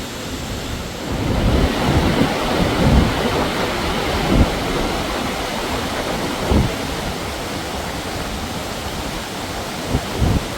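Waterfall's rushing water, a steady loud roar that swells about a second in. Several short low thumps of wind buffeting the microphone come through it.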